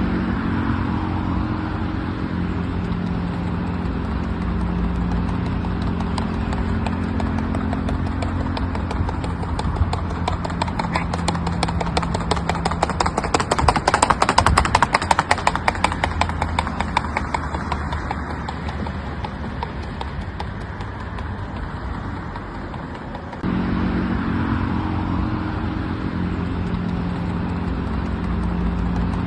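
A horse's rapid, even hoofbeats at the andadura (lateral pacing) gait, growing louder to a peak near the middle and then fading away. A steady low hum runs underneath.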